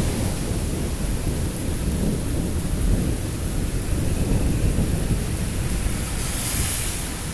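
Thunder rumbling low and continuously over steady rain, the rain's hiss swelling briefly near the end.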